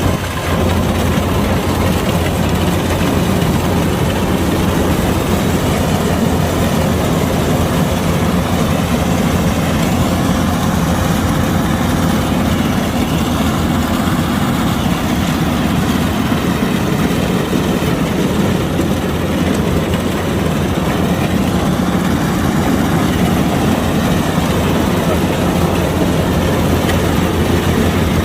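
Kubota DC-105X combine harvester's diesel engine running steadily with a low drone, and a faint higher whine that rises and falls now and then.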